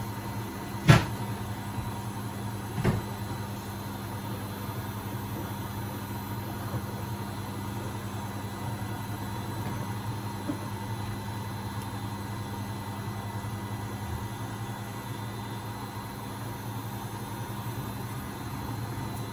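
Beko WMB71642W washing machine in its final spin at 1000 rpm: the drum spins at a steady speed with a constant hum and whine. Two sharp knocks, about a second in and about three seconds in, stand out above it.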